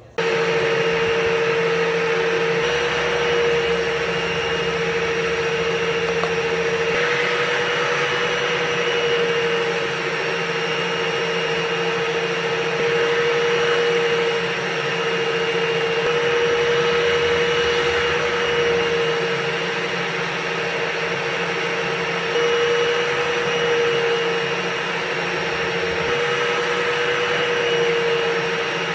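Dryer vent cleaning gear running steadily: a drill spinning a rotating vent brush through the duct, with a vent vacuum. It is a loud, continuous motor hum that dips and wavers slightly in pitch every few seconds as the brush meets drag in the duct.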